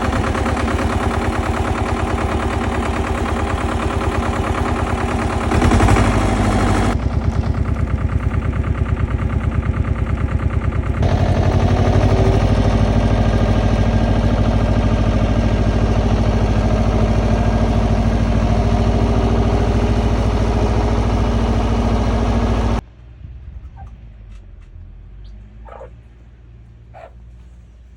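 An engine running steadily with a rapid even pulse, shifting in level a few times, then cutting off abruptly about 23 seconds in. A few short animal calls follow in the quiet.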